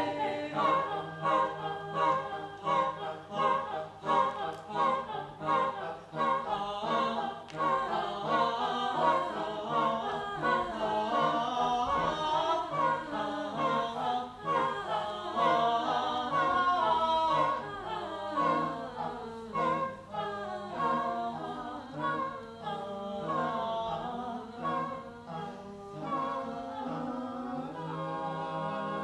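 A choir singing unaccompanied in several parts, with short rhythmic repeated notes, settling into sustained held chords near the end.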